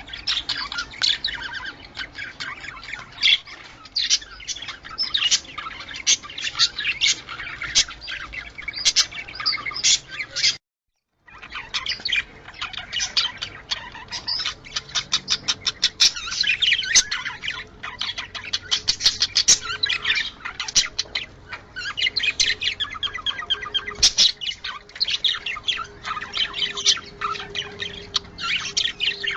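Budgerigars chattering and warbling in a continuous stream of quick chirps and short squawks. The sound cuts out completely for about half a second near the middle.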